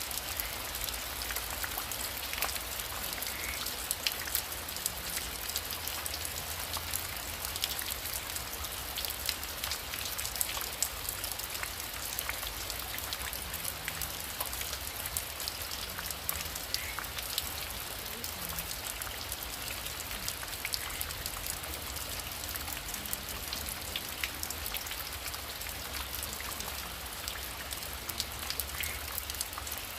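Heavy rain falling steadily: a dense, even hiss thick with the ticks of separate drops striking close by.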